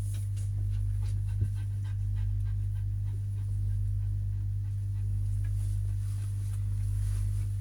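Steady low hum and rumble of a moving passenger train, heard inside the carriage, with one sharp click about a second and a half in.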